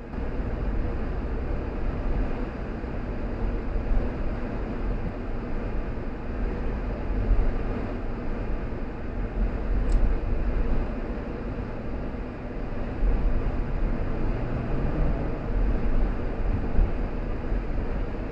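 A car driving along a road: a steady low rumble of tyres and engine with a hiss of wind noise, stepping up in loudness right at the start.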